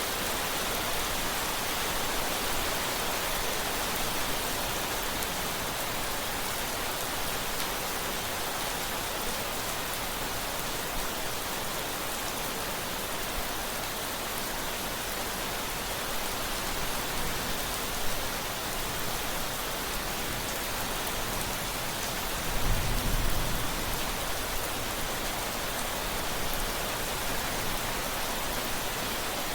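Steady rain falling, a continuous even hiss. About two-thirds of the way through, a short low rumble of thunder rises briefly under the rain.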